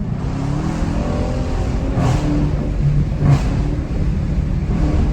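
Dodge Challenger's Hemi V8 running on fresh spark plugs, rising in pitch as it is revved just after the start, with a few louder throttle blips later. The familiar Hemi tick is still present, which the owner expects to clear with more driving.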